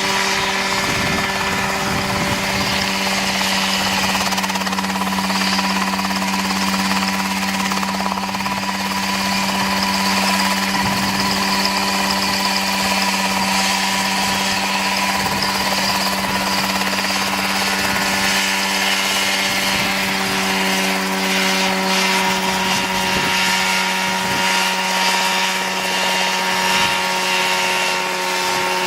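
Home-built Mosquito ultralight helicopter's engine running steadily at a constant pitch.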